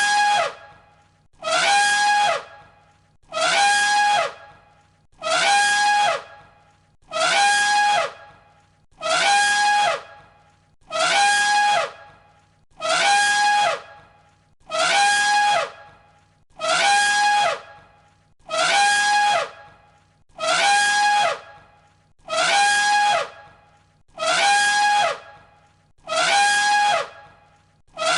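Elephant trumpeting: the same short, shrill call repeated on a loop, about one call every two seconds.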